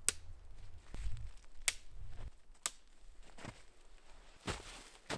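A tent being pitched: three sharp clicks about a second apart, then softer swishing, as pole sections and tent fabric are handled.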